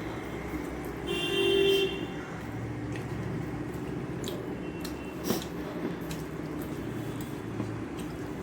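A vehicle horn toots once about a second in, lasting just under a second, over a steady low hum. A few faint clicks of eating follow.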